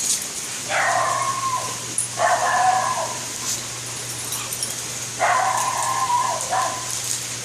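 A dog whining in three drawn-out cries of nearly a second each, with a short one near the end, over a steady low hum.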